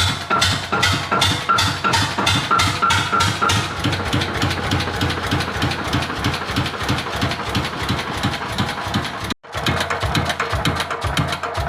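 Music with a steady beat laid over the running of an old Slavia 16 hp stationary engine, whose regular firing strokes come through beneath it. The sound cuts out for a moment about nine seconds in.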